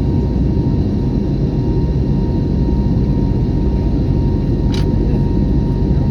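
Airbus A321neo jet airliner noise: a steady, loud low rumble with a faint constant whine, and one short click about five seconds in.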